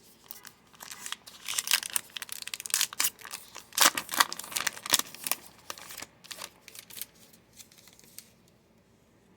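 A trading-card pack wrapper being torn open and crinkled by hand, a run of rustling and crackling that is busiest in the middle and trails off near the end.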